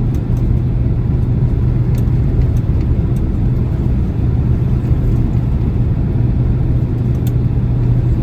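Boeing 767-300 cabin noise just after landing: a steady low rumble with an even hum from the engines and airframe, with a few faint clicks.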